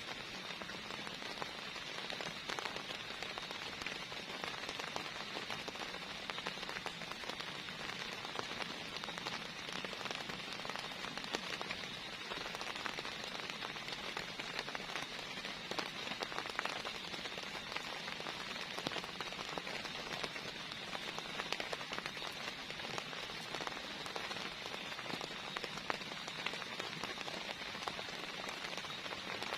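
Heavy rain falling steadily, with many individual drops ticking as they hit.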